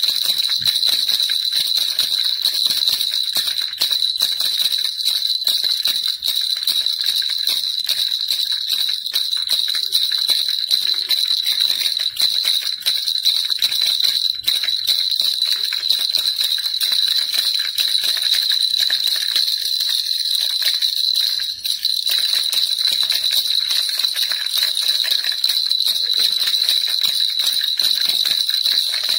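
Baby rattle shaken without pause: a fast, dense jingling rattle with a bright, high ring to it.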